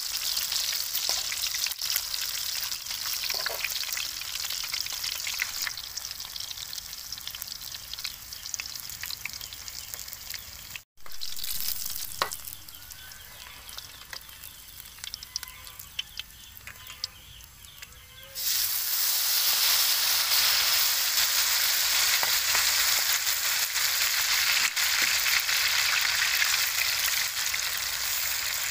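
Batter-coated banana stem strips frying in hot oil in a metal wok, a steady sizzle with occasional clicks of metal tongs against the pan. The sizzle cuts out briefly about eleven seconds in, then becomes much louder and denser from about eighteen seconds as a fresh batch of pieces bubbles in the oil.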